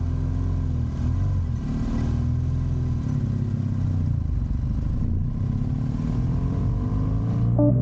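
Motorcycle engine running under way, its note shifting up and down a few times as the bike rides. Guitar music comes in near the end.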